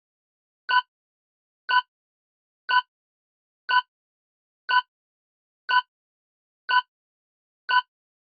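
Quiz countdown-timer sound effect: a clock-like tick once a second, eight identical ticks, while viewers have time to answer.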